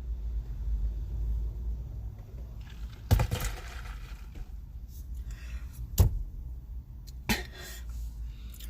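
A steady low rumble with three sharp knocks, about three, six and seven seconds in, each followed by a short hissy burst.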